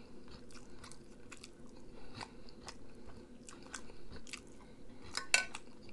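A person chewing food close to the microphone: soft, irregular mouth clicks, with a louder one a little past five seconds in.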